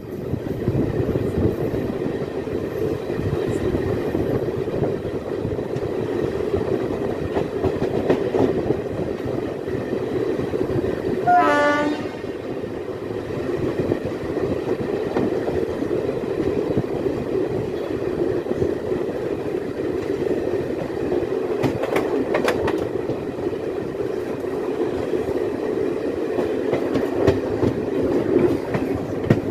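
Passenger train running along the track, heard from an open coach doorway: a steady rumble of wheels on rails with occasional clicks. About eleven seconds in, a short run of high tones falls quickly in pitch.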